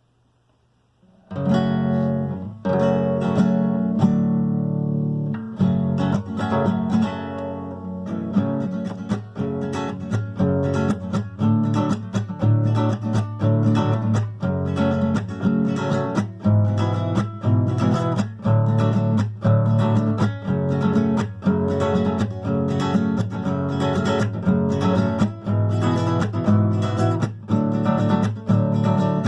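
Strummed acoustic guitar chords in a steady rhythm, starting suddenly about a second in after near silence.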